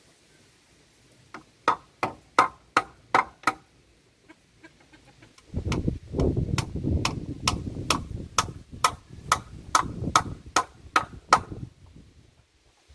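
Rapid, regular strikes on wood, about two or three a second: a short run, then after a pause a longer run over a low rumbling noise.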